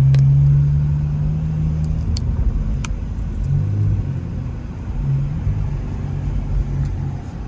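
Muffler-deleted Infiniti Q50's exhaust drone heard from inside the car while driving. It holds a steady low drone for about two seconds, then the note wavers up and down unevenly as the throttle changes.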